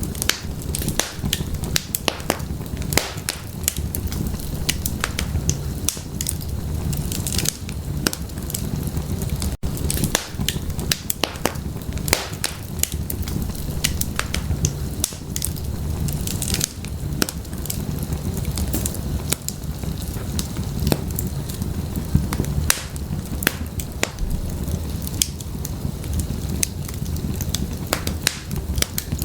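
Fireplace fire crackling, with dense irregular pops and snaps over a low rumble of the flames, and a momentary dropout just under ten seconds in.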